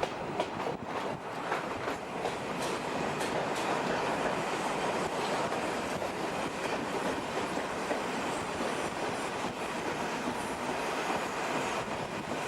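A train running on the rails. Sharp wheel clicks over rail joints come in the first few seconds, then settle into a steady rolling rumble.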